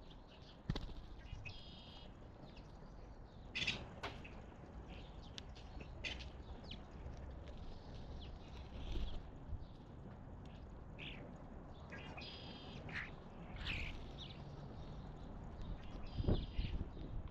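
Wild birds chirping and calling in short scattered notes at a garden feeder, over a steady low outdoor rumble, with a sharp click about a second in and another near the end.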